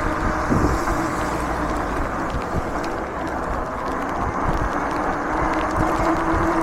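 Fat-tyre e-bike on the move: rumble and hiss of wind and tyres on the road, with a few small knocks. Over it runs the steady high whine of the electric motor, which drops out about a second in and comes back toward the end.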